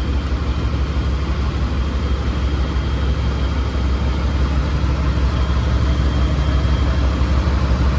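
A 2001 Dodge Ram 1500's 5.2 Magnum V8 idling steadily through a new muffler. The exhaust leaks at the joint between the manifold pipe and the downpipe, as the owner judges.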